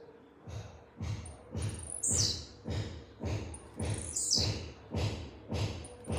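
Blue-black grassquit (tiziu) singing its short, high note twice, each sweeping down in pitch, about two seconds apart. Background music with a steady beat about twice a second plays under it.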